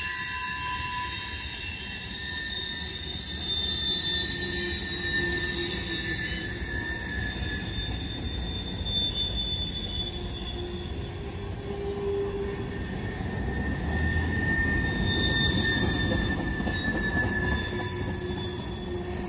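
Freight train cars rolling by with their wheels squealing: several thin, high, steady tones that drift slowly in pitch over a low rolling rumble. The rumble grows in the second half and is briefly louder near the end.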